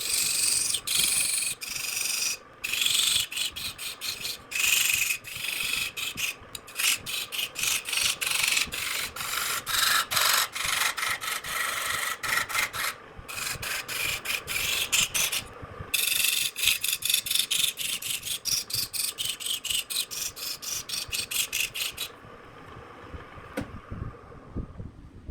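Rapid back-and-forth strokes of an abrasive tool rubbing over wood by hand, about four or five strokes a second, with a few short pauses. The strokes stop about three seconds before the end.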